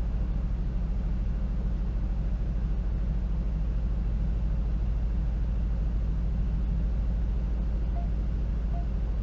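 2019 Aston Martin Vantage twin-turbo V8 and road noise: a steady low rumble as the car drives along.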